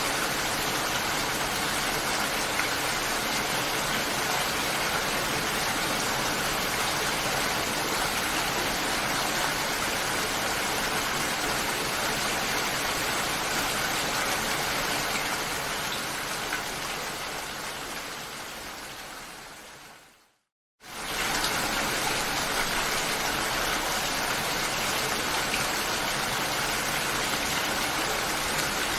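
Steady rain hiss that fades out over a few seconds, drops to a brief moment of silence, then comes back abruptly at full level, like a recording loop restarting.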